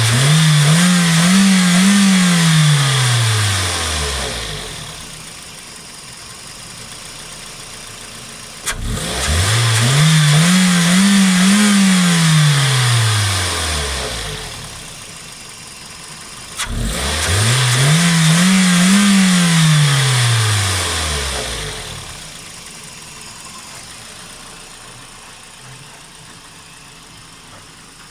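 Toyota Funcargo's 1NZ-FE 1.5-litre four-cylinder petrol engine revved up three times, about eight seconds apart. Each time it climbs quickly, holds for a couple of seconds and falls back to idle. It idles steadily over the last several seconds.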